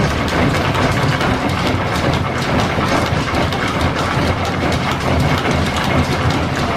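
Belt-driven shop machinery running steadily under a line shaft, a continuous mechanical clatter with a low rumble and quick, regular clicks.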